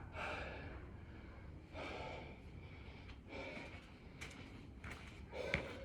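A man breathing hard from the exertion of burpees, with a loud breath roughly every second and a half. A short sharp click near the end.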